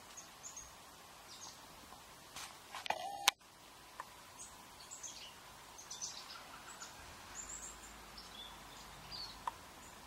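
Small birds giving short, high chirps here and there over a faint steady outdoor background, with a brief loud burst of noise about three seconds in that cuts off sharply.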